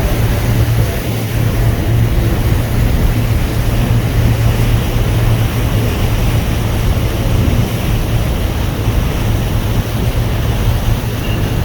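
A boat's engine running with a steady low hum, under a constant rush of water and wind noise on the microphone.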